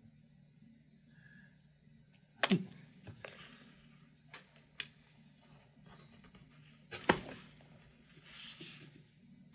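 Small parts and tools handled by hand: sharp clicks and knocks, the loudest about two and a half seconds in and another about seven seconds in, with short scratchy rustles between them, over a faint low steady hum.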